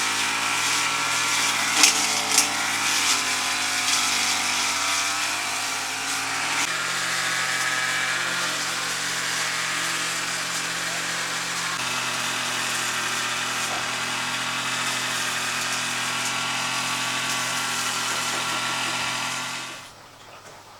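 A motor running steadily, its pitch changing abruptly twice, then cutting off about a second before the end. Two sharp clicks sound about two seconds in.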